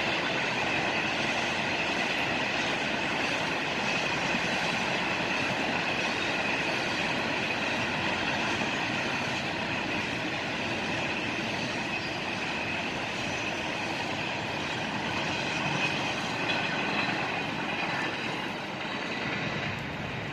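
Freight train cars rolling past on the rails: a steady rumble with a high, steady wheel squeal over it, easing off near the end.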